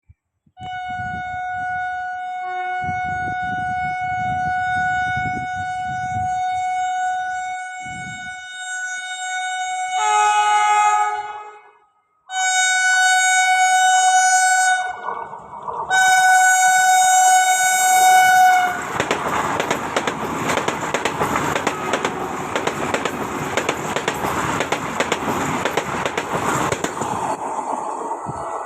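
Vande Bharat Express sounding its horn: one long blast of about nine seconds, then three shorter blasts, one of them at a different pitch. After that comes the loud, steady rush of the train passing at speed, with rapid wheel clicks, fading near the end.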